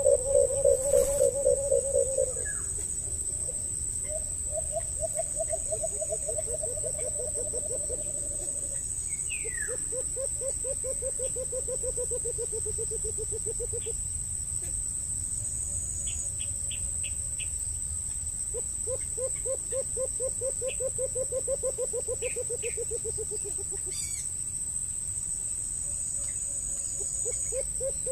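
A bird giving low, rapid trilled calls a few seconds long, several times over, each trill falling slightly in pitch, with two trills overlapping at one point. A steady high insect whine runs underneath.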